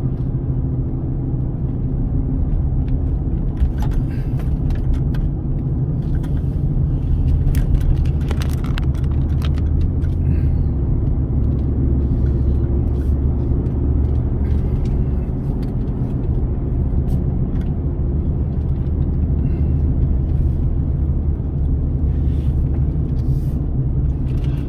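Steady low rumble of a car driving, engine and tyre noise heard from inside the cabin, with a few light clicks and rattles around four to nine seconds in.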